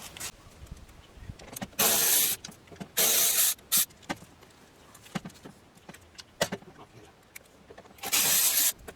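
Cordless power driver with a Torx bit run in short bursts, four times, undoing the screws that hold the window motor to the regulator inside the door, with faint handling noise between bursts.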